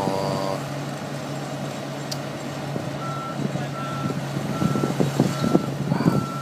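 Reversing alarm on the crane moving the sailboat, beeping about once every three-quarters of a second from about halfway in, over the steady running of its engine. A few knocks sound near the end.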